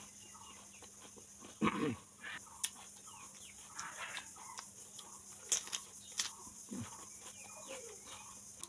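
Raw cucumber being bitten and chewed: a few sharp crunches, the loudest about two seconds in and again past five seconds, between quieter mouth sounds.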